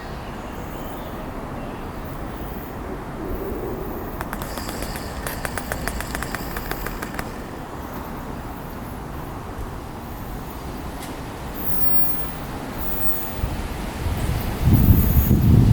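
Steady outdoor background of traffic hum with a few birds, and a quick run of high ticks for about three seconds in the first half. Near the end the low rumble of an arriving Merseyrail electric train comes in suddenly and much louder.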